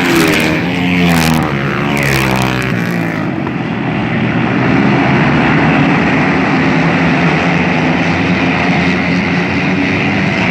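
Several flat-track racing motorcycles running together on the dirt oval. Their engines rise and fall in pitch over the first few seconds, then blend into a steady, loud engine noise.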